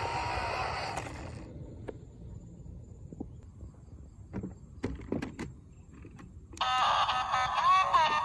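A small electric motor whirring with a slowly rising pitch, stopping a little over a second in; then scattered clicks and knocks, and music starts near the end.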